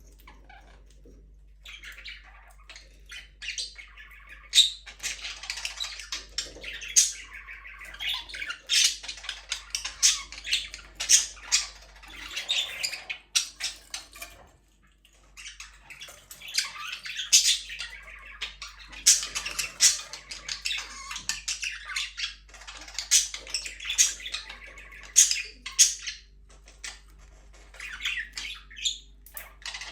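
A flock of budgerigars chattering and chirping, with many overlapping short warbles and sharp squawks that ease off briefly about halfway through.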